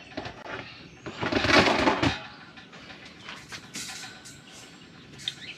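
Wire cooking grates being slid along their rails into a Masterbuilt electric smoker cabinet: one scraping slide about a second in, lasting about a second, followed by a few light metal clicks and taps.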